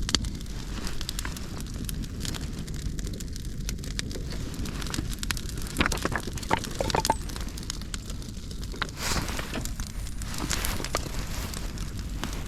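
Wood campfire crackling and popping, with a cluster of sharper snaps about six to seven seconds in, over a steady low rumble.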